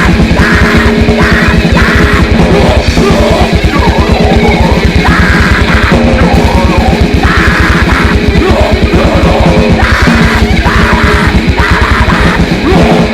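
Live grindcore band playing at full volume: very fast blast-beat drums and distorted electric guitar, with bursts of screamed vocals coming and going.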